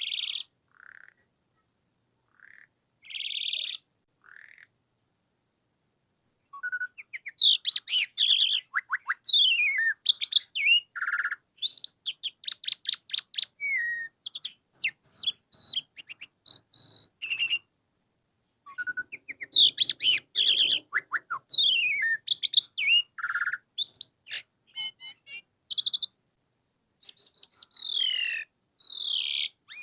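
Jalak suren (pied starling) singing: a few scattered calls, a short pause, then long, fast, varied runs of whistles, chattering notes and rasps, broken by a pause of about a second in the middle.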